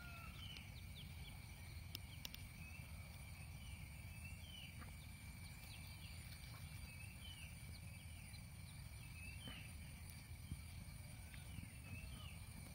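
Faint outdoor ambience: short bird chirps repeating about once a second over a low steady rumble.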